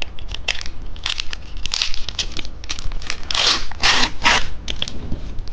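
Plastic candy wrapper crinkling and being torn open: a run of short crackles, with three louder tearing rips about three and a half to four and a half seconds in.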